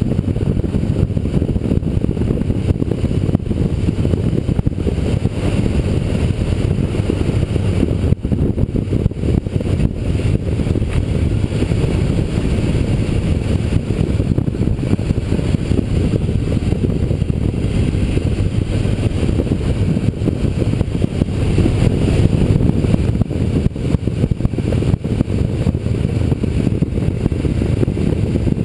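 Motorcycle riding at speed: a steady low rush of wind buffeting the microphone over the engine's running noise.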